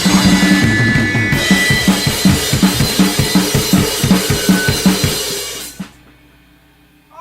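Rock band rehearsal recording with full drum kit and guitar, the drums hitting a driving beat of about four strokes a second. The song ends about six seconds in with a ringing decay, leaving a faint hum.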